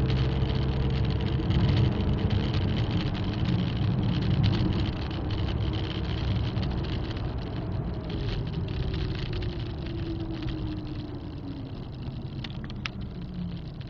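In-cabin sound of an Audi A3's 1.9 TDI four-cylinder turbodiesel and road noise as the car slows down, the engine note falling steadily in pitch and getting quieter. A couple of light clicks near the end.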